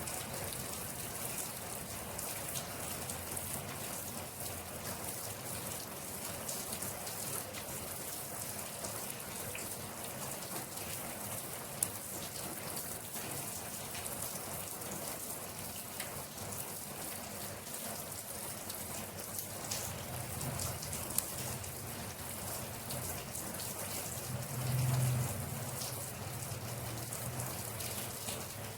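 Steady rain falling on a surface, with many small drop ticks over an even hiss and a couple of sharper drip clicks. A low rumble swells briefly near the end.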